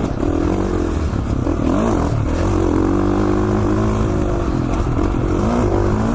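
2017 KTM 450 XC-F dirt bike's single-cylinder four-stroke engine running under changing throttle while being ridden on a trail. Its pitch dips and rises about two seconds in, holds steady for a few seconds, then swings again near the end.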